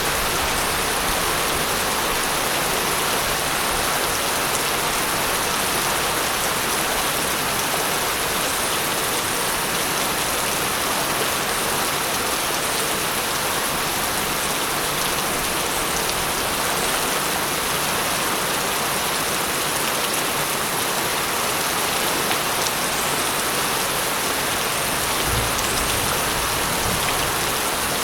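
Steady rain falling on a surface, a dense, even hiss of drops with no letup.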